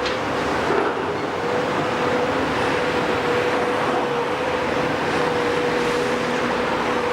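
Heavy demolition machinery running steadily, a dense mechanical din with a steady whine held at one pitch.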